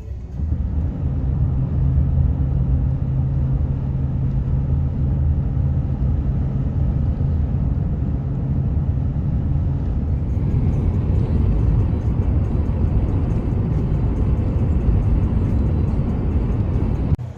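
Pickup truck driving at highway speed while towing a trailer: a steady low engine and road drone. A steady low hum runs through the first ten seconds or so, after which a higher hiss comes up.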